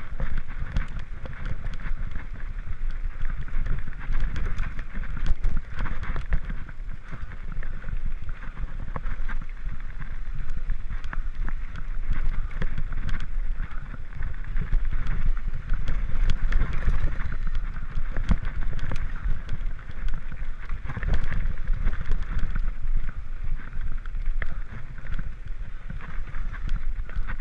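Mountain bike running fast down a rough dirt singletrack: a steady rumble of tyres on dirt and rocks with many small knocks and rattles from the bike.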